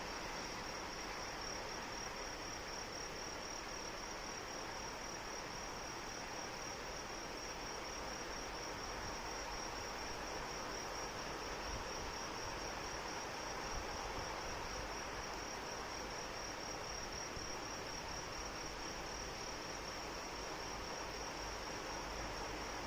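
Steady rain with an insect trilling continuously in a high, rapidly pulsing tone.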